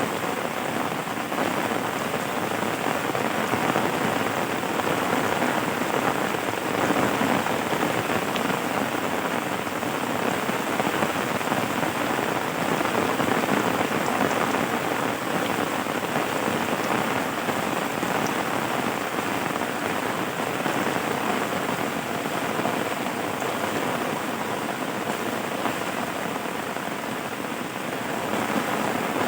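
Steady rain falling, an even hiss of drops without a break or a clap of thunder.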